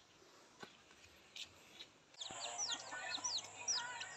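Near silence with a couple of faint clicks, then from about two seconds in, birds chirping in many quick, short chirps that fall in pitch, over a faint steady high whine.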